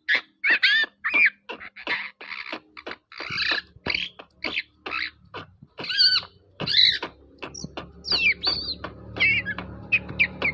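Young long-tailed shrike (cendet) singing a fast string of short chattering notes and warbled whistles, about three or four a second. A low steady hum comes up in the background about halfway through.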